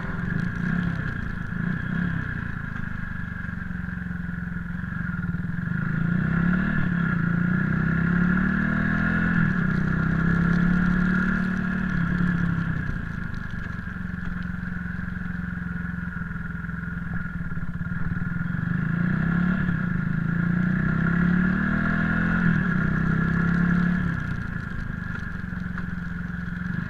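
Motorcycle engine running while riding, its pitch rising and falling in slow swells as the throttle opens and closes, over a steady high hum.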